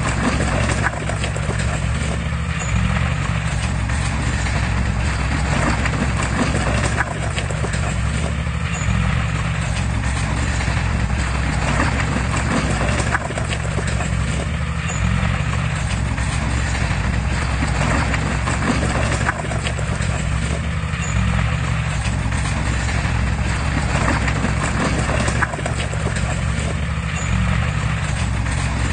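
Heavy diesel engine of a crawler bulldozer running steadily under a constant low hum, with irregular metallic clanking and knocking over it, typical of steel tracks and working equipment.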